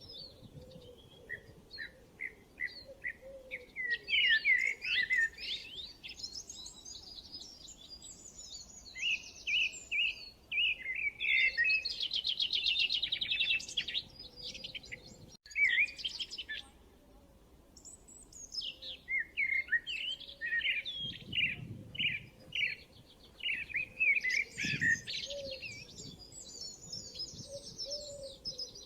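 Several songbirds singing and chirping together. Quick high chirps and rapid trills overlap throughout, with a brief dropout about halfway through.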